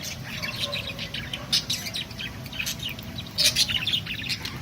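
Budgerigars chirping: many short, quick chirps overlapping, with a louder flurry about three and a half seconds in.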